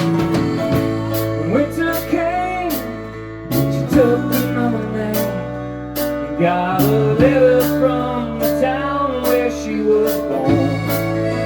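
A live band playing a song: a singer's voice over steady sustained chords, with regular sharp high ticks from the drums.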